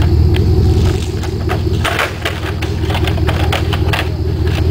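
Lifted Chevrolet Silverado's engine idling through a Flowmaster exhaust, a steady deep rumble, with scattered light clicks and knocks over it.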